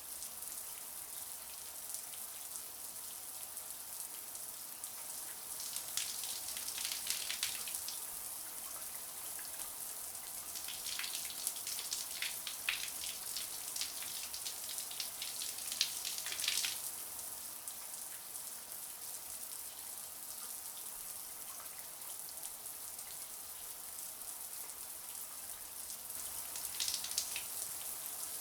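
Shower water running steadily: a high hiss of spray with spells of louder spattering a few seconds in, through the middle, and near the end.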